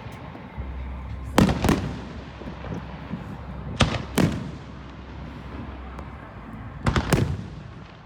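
Fireworks going off: sharp loud bangs coming in pairs, about two and a half seconds apart, each with a short fading echo, with a quick cluster of three near the end.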